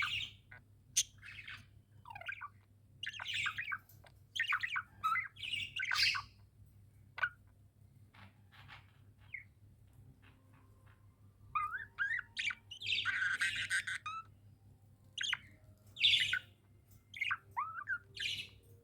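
Pet budgerigars chirping and warbling in irregular bursts of short, rapid calls, with a harsher squawky stretch of chatter a little past the middle.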